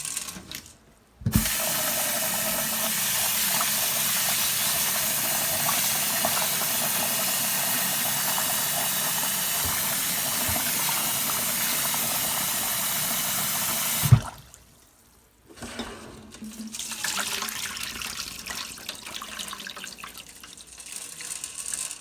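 A faucet runs steadily into a jar of wild bird seed being rinsed, starting with a knock about a second in and shut off with a clunk about fourteen seconds in. Softer, irregular handling sounds follow.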